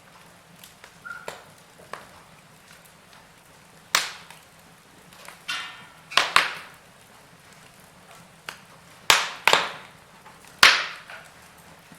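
Wood fire burning in a fireplace, crackling with about half a dozen sharp pops, several coming close together in the second half.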